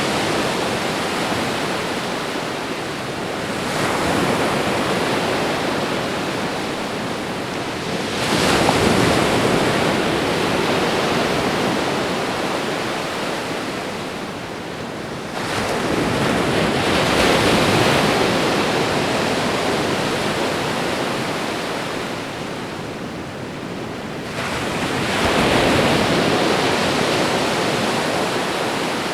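Ocean waves breaking and washing up a shore, a steady wash of surf that swells into a louder surge every several seconds (four times) and eases off gradually between them.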